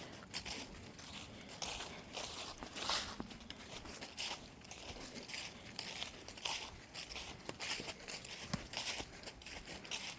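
Footsteps crunching on a dry woodland trail, an uneven run of scuffs, about two or three a second.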